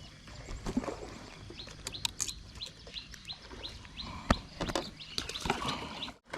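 A bird repeating a short, high chirp about three times a second, with scattered sharp clicks and knocks; the loudest knock comes about four seconds in.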